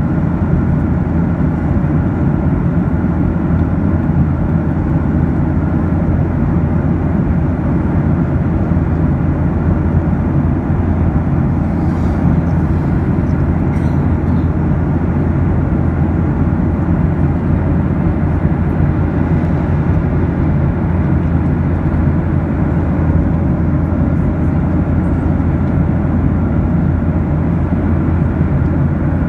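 Steady drone of an airliner in flight heard from inside the cabin: engine and airflow noise, heavy in the low end with a faint steady hum over it, unchanging throughout.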